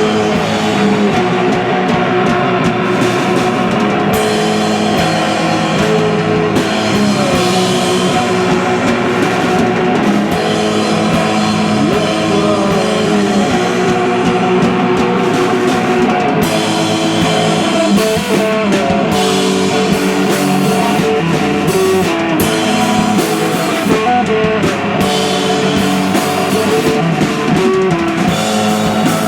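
A live rock band playing loud, with guitars and a drum kit; the guitar notes hold and bend.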